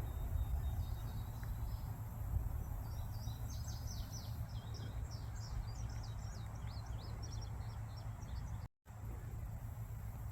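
Birds chirping, a quick run of short high chirps lasting several seconds over a steady low rumble. The sound cuts out for a moment near the end.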